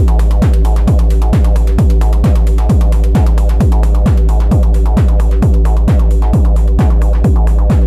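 Elektron Analog Rytm drum machine playing a techno groove: a steady four-on-the-floor kick, each hit dropping in pitch, a little over two a second, with short hi-hat-like hits between the kicks over a held deep bass and a steady chord-like drone.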